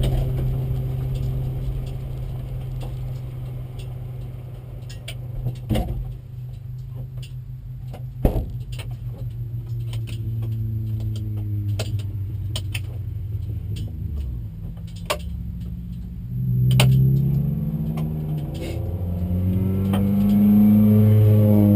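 Renault 5 Turbo's turbocharged four-cylinder engine running at low revs, heard from inside the cabin, with a few sharp knocks. Near the end the revs rise and fall as the car pulls away.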